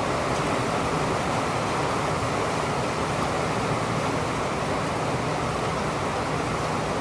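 Steady rain: an even, unbroken rushing hiss, with no thunder.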